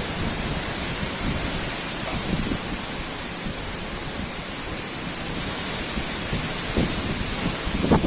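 Strong wind blowing hard, a steady rushing noise with uneven low rumbling gusts.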